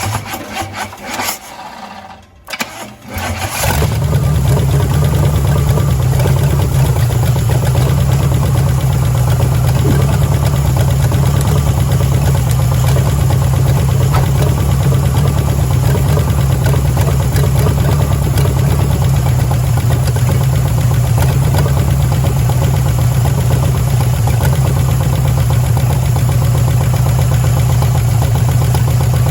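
Pontiac 350 V8 being cranked by its starter in two short goes over about three seconds, then catching and running steadily and loudly.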